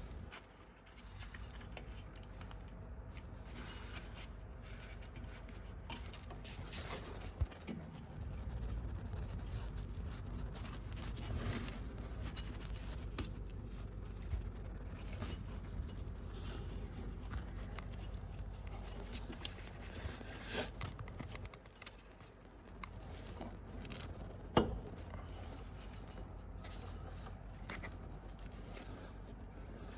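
Scattered scrapes, clicks and rubbing of tools and parts being handled during suspension work, over a steady low rumble, with two sharper knocks.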